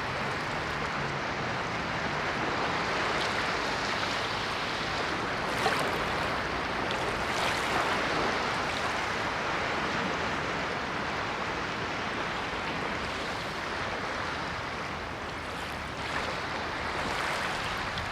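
Ocean surf: waves washing in as a steady rush of water, swelling about six seconds in and easing off again.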